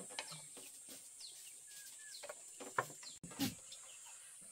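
Faint rural ambience: scattered short bird chirps and a few light clicks over a steady high hiss.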